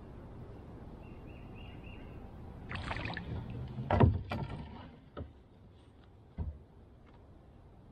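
Splashing and knocking on a kayak: a stretch of splashing with one loud knock about four seconds in, then two lighter knocks, over a steady low rush of wind.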